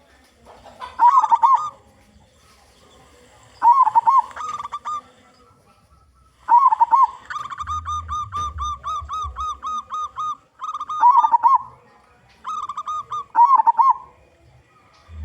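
Zebra dove (local perkutut) cooing in a series of short repeated phrases, with one long run of rapid, even notes in the middle.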